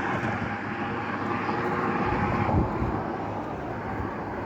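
Highway traffic passing, a steady drone of tyres and engines that fades slightly toward the end.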